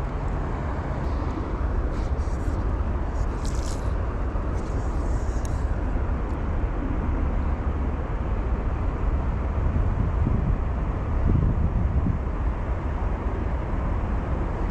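Steady rush of a flowing trout river with wind rumbling on the microphone, and a few faint short ticks in the first six seconds.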